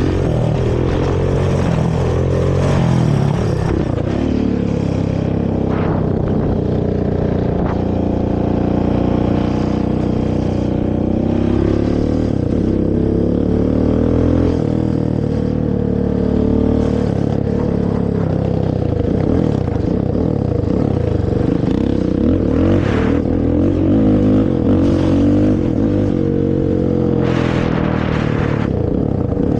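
Honda TRX450 ATV's single-cylinder four-stroke engine through its stock exhaust, revving up and falling back again and again as the quad accelerates and shifts while riding. A few short rushes of noise break in, the longest near the end.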